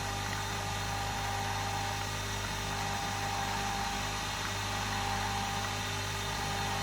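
Nespresso Vertuo capsule coffee machine running steadily as it brews, dispensing coffee into the cup: an even mechanical hum with a constant tone.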